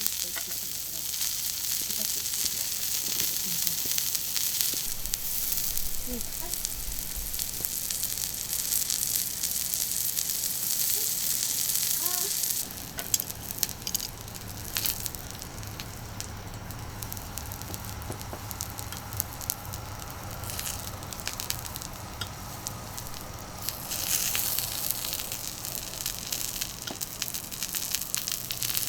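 Food sizzling on a thick iron griddle plate over a charcoal grill, a steady hiss with small pops. About twelve seconds in the sizzle drops suddenly to a quieter hiss with scattered crackles, then swells again near the end.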